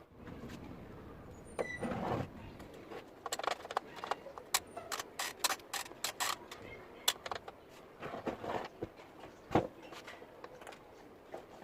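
Irregular sharp clinks and clicks of small metal parts and hand tools being handled, densest through the middle, with one heavier knock later on.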